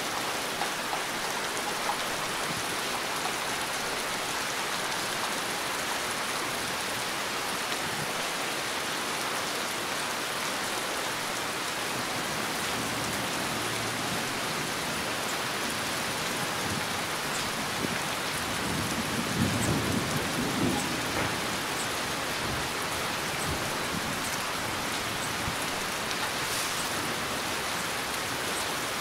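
Heavy rain falling steadily, a dense, even hiss of drops, with a short low rumble of thunder about two-thirds of the way through.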